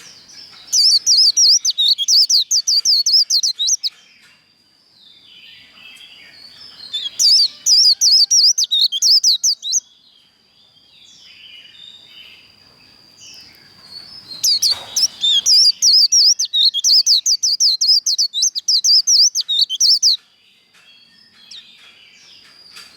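White-eye (vành khuyên) singing its fast, chattering 'líu' competition song: three long bouts of rapid high, zigzagging notes, the last lasting about five seconds. A thin, steady high tone runs between the bouts, and a brief knock comes near the start of the third bout.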